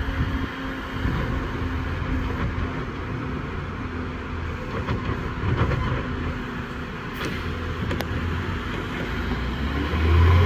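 CCC New Way Sidewinder side-loader garbage truck engine running steadily, with a couple of sharp clicks in the second half. Near the end the engine pitch starts to rise as it revs up.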